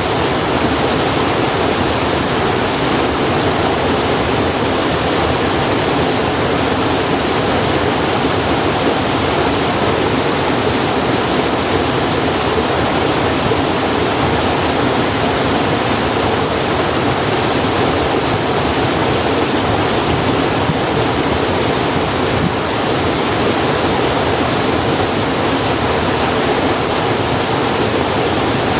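Steady rushing of running water, even in level throughout, with no separate crackles or pops standing out.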